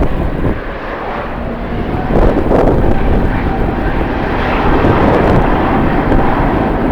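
Jet airliner engines running with a steady roar and a faint whine, with wind buffeting the microphone.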